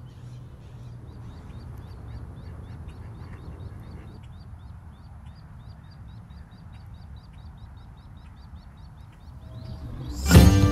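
A bird peeping steadily, about three to four short high calls a second, over a low outdoor rumble. Guitar music comes in loudly near the end.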